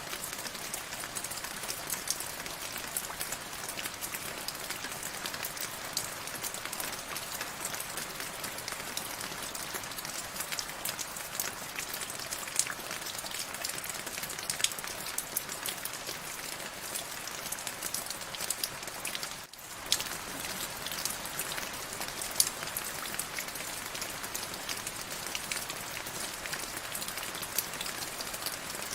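Steady rain falling, an even hiss with many distinct drops ticking through it; the sound briefly dips out about two-thirds of the way in.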